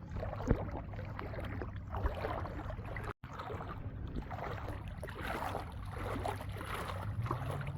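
Water splashing and lapping as a small dog paddles, over a steady low hum, with a brief cutout of all sound about three seconds in.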